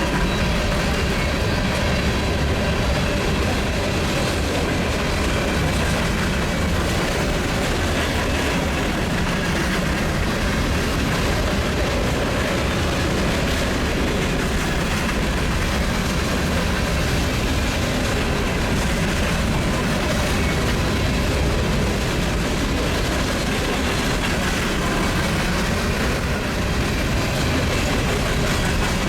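Union Pacific empty coal train rolling past steadily, the empty hopper cars' wheels clattering over the rails; the owner hears many noisy flat-wheeled cars in this train.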